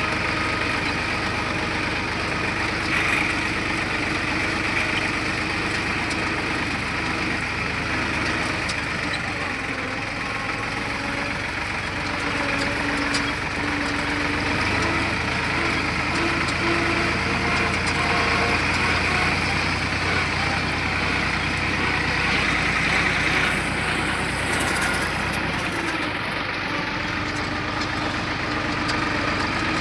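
Deutz-Fahr tractor's diesel engine running steadily while hauling a trailer load of sand, its note shifting slightly partway through.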